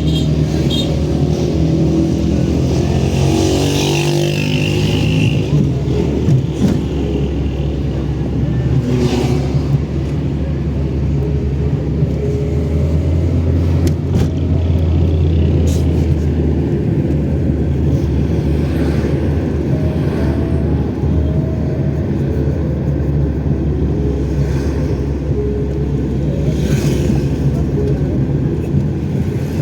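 Car engine running steadily with a low drone.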